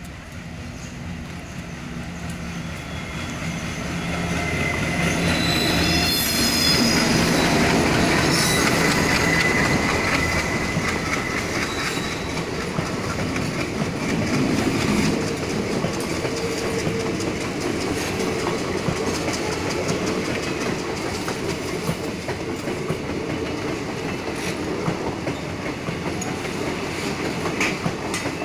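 An Indian Railways diesel locomotive hauling a passenger train approaches with its engine running, growing louder and passing about six to ten seconds in. The coaches then roll steadily past with a clickety-clack of wheels over rail joints, and the wheels squeal high on the curve as the locomotive goes by.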